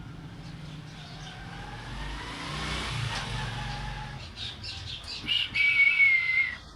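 A swelling, vehicle-like sound that rises in pitch, peaks about three seconds in and fades. It is followed by a parrot's quick clicks and a long, loud whistle that dips slightly just before it stops; the whistle is the loudest part.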